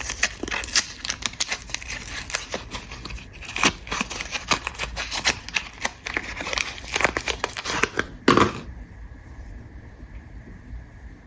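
Soap packaging being unwrapped by hand: the wrapper crinkles and tears in quick, irregular crackles, loudest in a flurry shortly before they stop, about three quarters of the way through.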